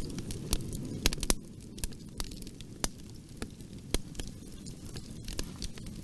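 Wood fire crackling: sharp, irregular pops and snaps, a quick cluster of them about a second in, over a low steady rumble of the burning fire.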